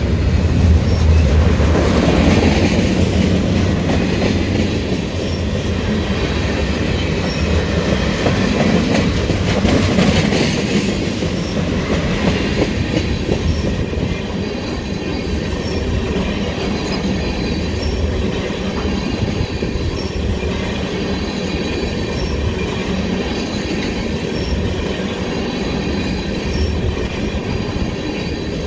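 Freight train of gondola and tank cars rolling past at steady speed: continuous rumble of steel wheels on the rails, loudest in the first few seconds and again around ten seconds in.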